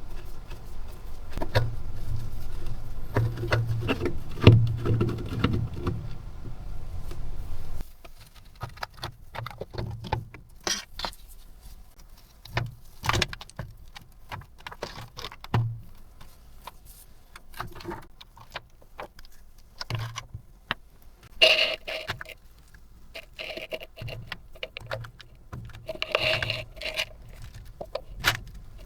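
Keyboard cleaning by hand. For the first several seconds there is a continuous scrubbing, rubbing noise, then it stops abruptly. After that come scattered clicks and clatters of plastic keyboard parts being handled, with small clusters of clicking about two-thirds of the way through and near the end.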